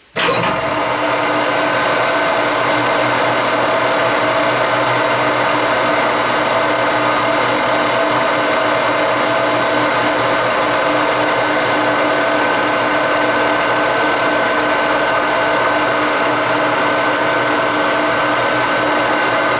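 Metal lathe switched on and running steadily, its geared headstock giving a constant whine of several steady tones over a mechanical hum.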